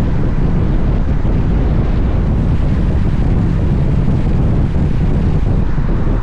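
Steady wind rushing over the microphone of a motorcycle-mounted camera while riding, with a low rumble of road and engine noise underneath.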